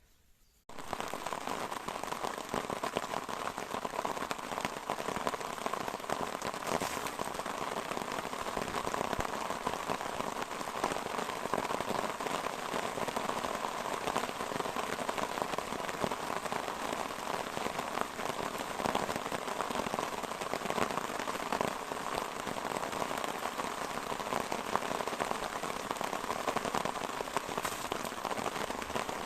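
Steady rain falling: a dense, even patter of drops that starts abruptly just under a second in.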